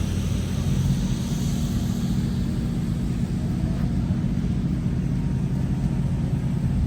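An engine running steadily at a constant speed, with a low hum and a rumble beneath it.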